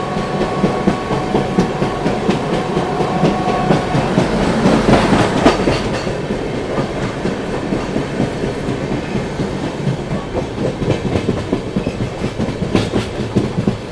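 Passenger train running along the line, its wheels clattering over the rail joints above a continuous rumble. Two faint steady tones sound for the first few seconds, and the rattling grows louder for a stretch about four to six seconds in.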